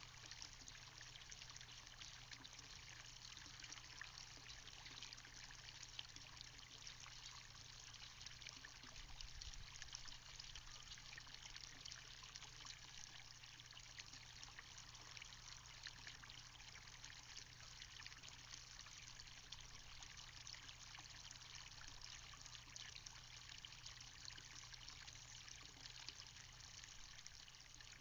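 Faint, steady rain: an even patter of many small drops, with no let-up.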